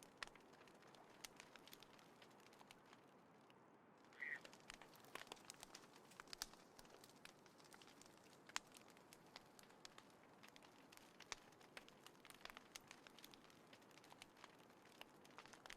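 Small wood fire crackling quietly, with scattered irregular sharp pops and ticks. A brief high chirp sounds about four seconds in.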